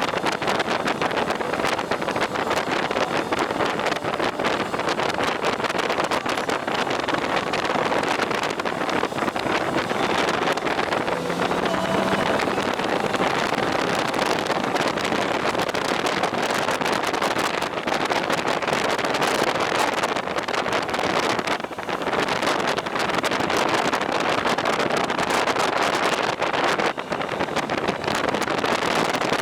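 Steady rush of wind over the microphone and road noise from a motorcycle riding along a road, continuous throughout.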